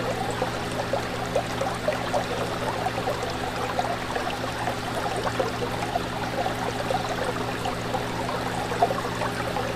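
Fish tank running: water bubbling and trickling without pause over a steady low hum from the tank's pump or filter.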